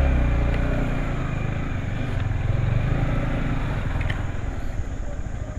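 Yamaha MT15 V2's 155 cc single-cylinder engine running at low speed while the motorcycle is being parked, fading near the end.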